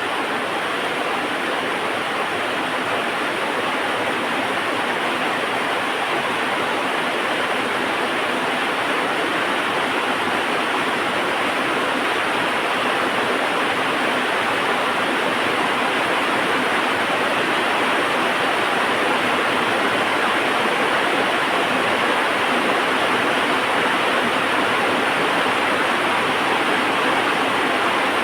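Heavy rain falling steadily: an even, unbroken hiss, with no thunder or fire crackle standing out.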